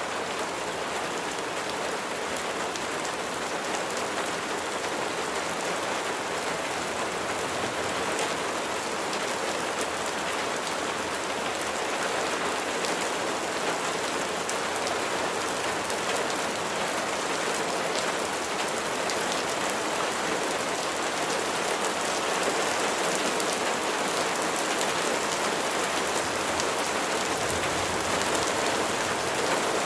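Steady rain falling on a surface, a dense even hiss of many drops with fine individual drop ticks.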